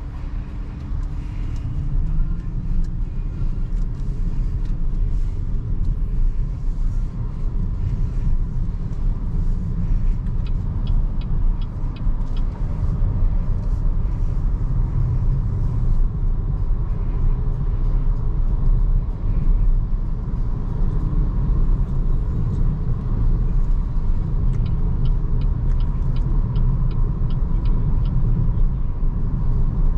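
Steady tyre and road rumble of a BYD Seagull electric hatchback driving, with no engine sound. Two runs of light, even ticking come about ten seconds in and again near the end.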